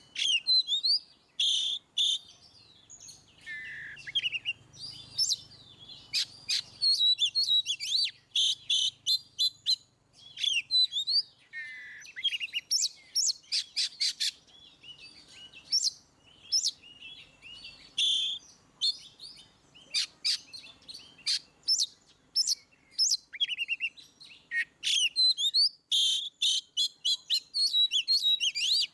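Oriental magpie-robin singing a loud, full-voiced song (ngeplong): a long, varied run of rapid sharp notes, clear whistles and sweeping glides, broken by brief pauses.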